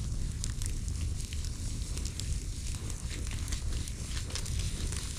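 Campfire burning, with scattered crackles and pops over a steady low rumble.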